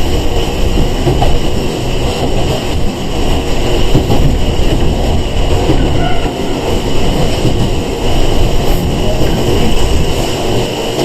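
Sangi Railway 101 series (ex-Seibu 401 series) electric train running, heard from inside the car: steady rumble of wheels on rail, with some clickety-clack.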